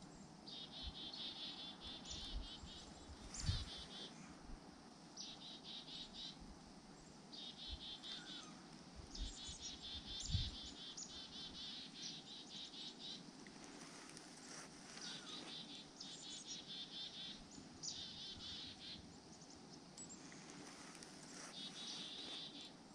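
Small birds calling in short, high, rapid trills, repeated many times with brief gaps. Two soft low thumps come about three and a half and ten seconds in.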